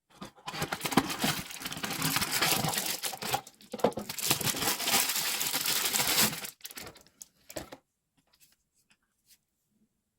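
Plastic packaging being crinkled and torn open in a small room, a dense rustle that pauses briefly and stops about two-thirds of the way in, leaving a few small clicks.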